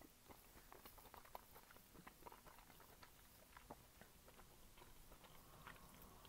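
Faint chewing of a mouthful of braised chicken, with small scattered clicks and mouth noises over near silence.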